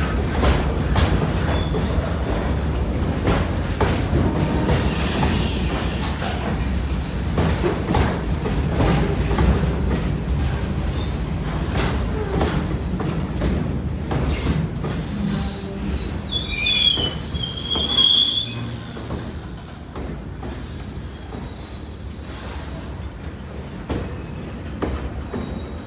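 Container freight train rolling past: a steady low rumble with wheel clicks over rail joints. High wheel squeal comes in a little after halfway, and the rumble drops in level for the last several seconds.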